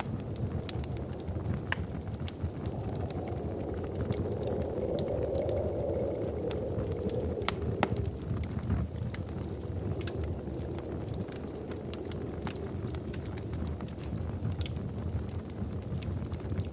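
Wood fire in a fireplace crackling, with scattered sharp pops over a low steady rumble of burning; one louder pop about eight seconds in.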